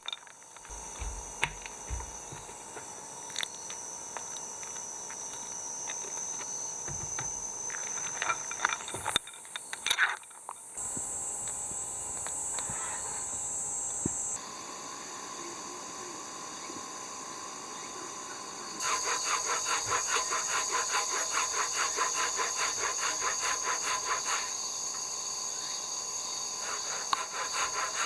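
Wood being worked by hand with fast, even sawing or rasping strokes that take over in the second half, over a steady high hiss.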